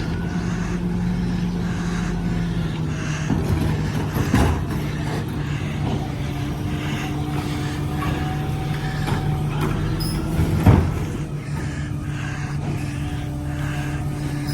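Garbage truck's diesel engine running steadily while its hydraulic packer compacts the load, with a few metallic clunks, the loudest about ten and a half seconds in.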